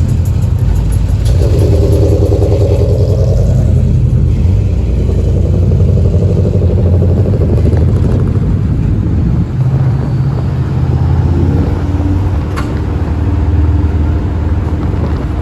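Motor vehicle running, a steady low, deep sound whose pitch shifts at times. A single sharp click about twelve and a half seconds in.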